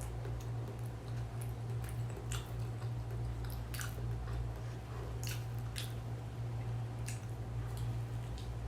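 A person chewing a mouthful of mixed rice dish close to the microphone, with scattered wet mouth clicks and smacks. A steady low hum runs underneath.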